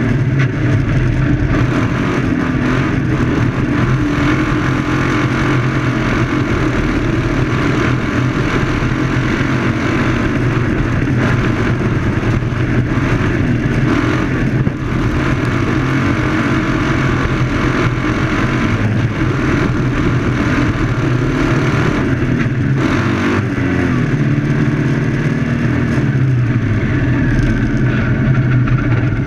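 Onboard sound of a 2CV autocross car's engine at race speed, its revs rising and falling through the corners, with a steady rushing noise over it.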